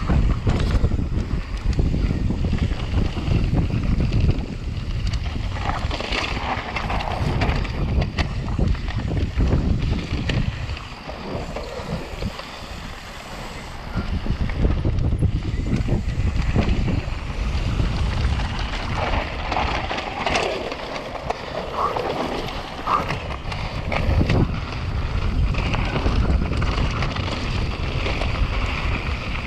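Wind buffeting the microphone over the rumble and rattle of a mountain bike descending at speed on a rough trail. It eases for a few seconds midway, then picks up again.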